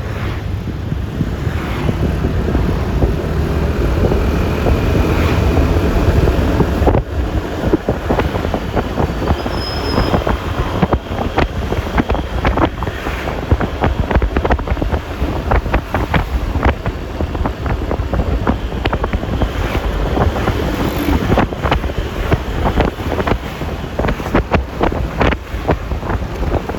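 Wind buffeting the microphone over the low, steady drone of a Yamaha Lexi LX 155 scooter's single-cylinder engine and tyres on the road. From about ten seconds in there are frequent sharp knocks.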